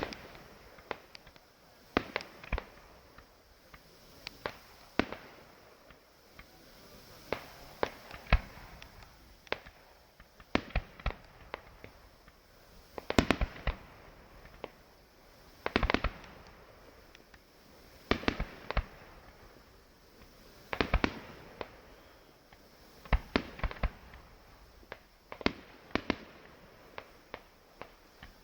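Fireworks exploding: a string of sharp bangs every second or two, some in quick clusters of several cracks.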